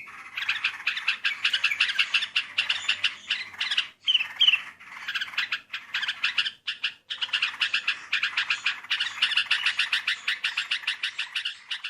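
Yellow-vented bulbul (trucukan) calling, a dense chattering run of rapid notes broken by a few short pauses.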